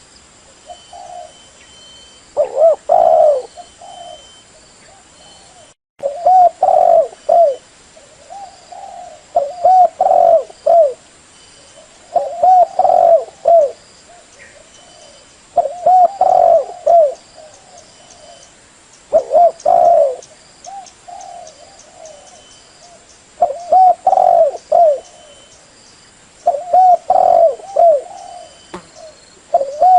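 Female spotted dove cooing: short phrases of several coos repeated about every three seconds. A faint steady high tone runs underneath.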